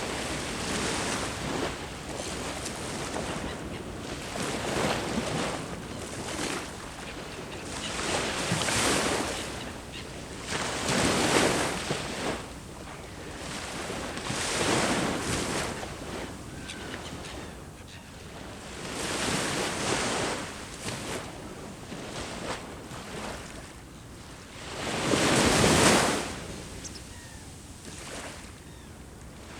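Sea waves breaking and washing on the shore, a new surge every two to three seconds, the loudest one near the end.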